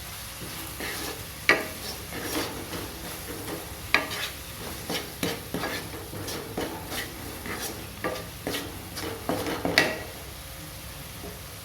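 Vegetables stir-frying in a pan, a utensil scraping and knocking against the pan at an irregular pace over a light sizzle; the stirring stops about ten seconds in, leaving the faint sizzle.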